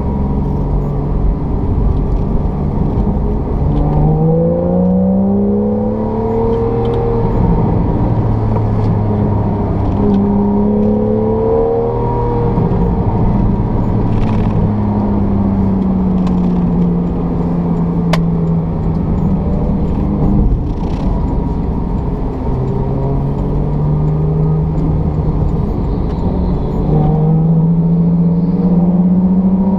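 Porsche 911 (991) Carrera GTS's naturally aspirated flat-six engine heard from inside the cabin on track. The engine pitch climbs under acceleration about four seconds in and again around ten seconds, falls away slowly in the middle, then rises in steps again near the end.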